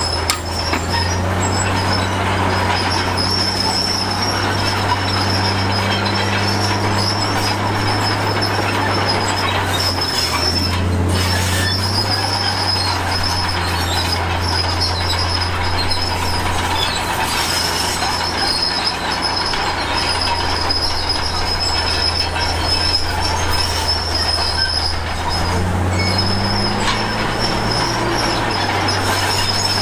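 Komatsu D53P crawler bulldozer working, its diesel engine running under load with a high, steady squeal and grinding from the steel tracks. The engine note dips briefly about a third of the way in and shifts in pitch near the end.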